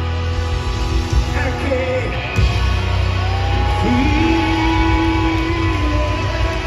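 Rock band playing live: held notes over a steady low bass drone, with a note sliding up and holding a little under four seconds in.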